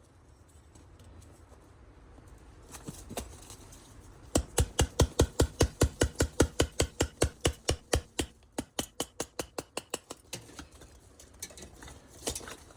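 Kindling being split with light, rapid taps: a fast, even run of sharp wooden knocks, about five a second, starting a few seconds in and weakening after a few seconds, with a few scattered knocks near the end.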